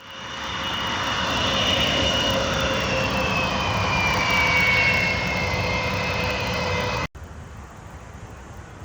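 Sukhoi Flanker fighter's twin jet engines running loud, with a high whine that slowly falls in pitch. The sound cuts off abruptly about seven seconds in, leaving a much quieter steady noise.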